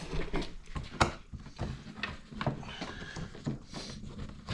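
Scattered clicks and knocks of a snowmobile's plastic side panel being unlatched and taken off, with one sharper knock about a second in.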